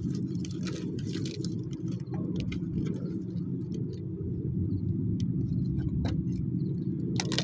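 Burning firewood crackling and popping, with many short sharp snaps over a steady low rumble.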